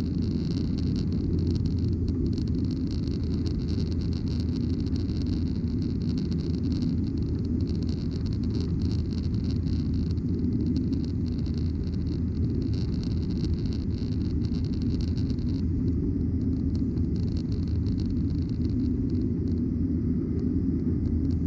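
Steady engine and airflow noise inside the cabin of a Boeing 737-900ER, its CFM56-7B turbofans running at climb power, a low rumble with a higher hiss that eases about two-thirds of the way through.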